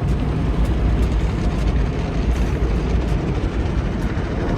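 Automatic car wash machinery working over the car, heard from inside the cabin: a loud, steady rumble with a hiss of spray over it.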